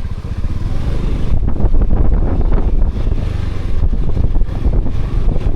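Motorbike running along a road, with heavy wind buffeting on the microphone.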